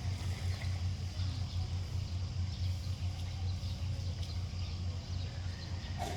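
Steady low rumble with a few faint, short, high chirps of birds over it.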